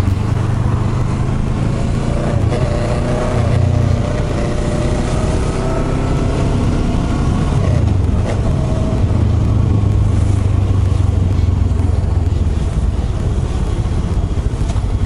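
Kawasaki ER-6n's 649 cc parallel-twin engine running under way, its pitch rising gently, dipping about eight seconds in, then holding steady, over a constant rush of wind and road noise.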